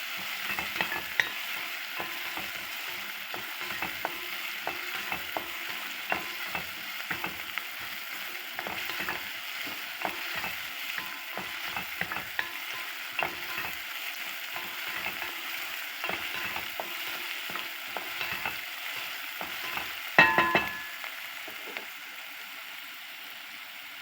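Food sizzling steadily in a frying pan while a utensil stirs it, with frequent light scrapes and taps against the pan. About twenty seconds in, one louder metallic clank rings briefly.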